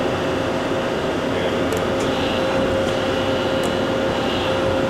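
Hardinge Conquest T42SP CNC lathe running under power: a steady machine hum with one constant tone, and a few faint light clicks. The axes are moving quietly.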